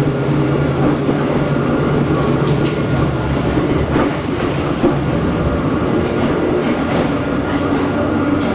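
Onboard running sound of Hakone Tozan Railway Moha 1 type car No.106, with nose-suspended (吊掛) drive and SE121-A traction motors: a steady hum from the motors and gears at an even pitch, with wheel-on-rail clatter and a few sharp clicks.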